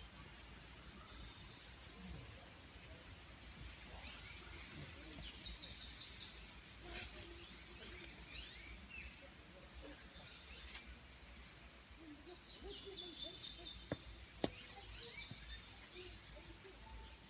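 Songbirds singing: several bursts of rapid high trills lasting a couple of seconds each, the longest near the end, with sharp quick chirps between them. A single faint click about three quarters of the way through.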